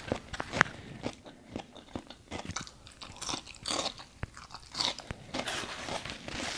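Close-miked eating sounds: irregular crunches, bites and wet chewing clicks from a person eating food.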